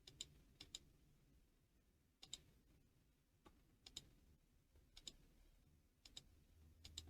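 Faint computer mouse clicks, several of them in quick pairs like double-clicks, spaced about a second apart.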